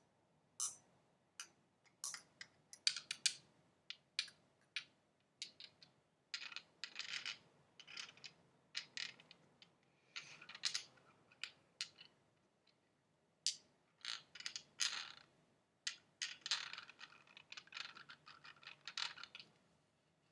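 Close-up ASMR tapping and scratching on objects: irregular quick clicks and short crackly scratches, coming in clusters.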